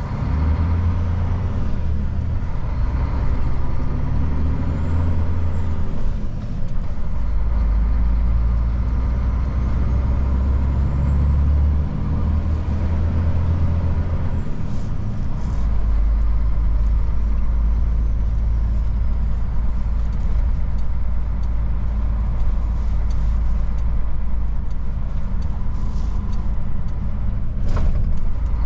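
Old Mercedes-Benz truck's diesel engine running while driving in town, its pitch stepping up and down with gear changes through the first half, then settling into a steady lower rumble. A short sharp sound comes near the end.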